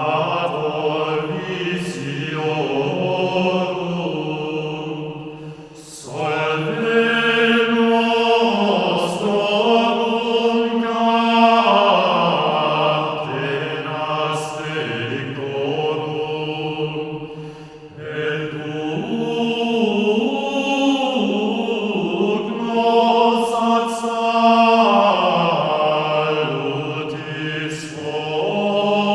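Chant-like vocal music: voices holding long sustained notes in slow phrases, with brief breaks about six and eighteen seconds in.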